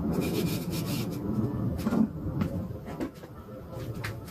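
Kitchen handling sounds: a few knocks and clatter over a low background rumble.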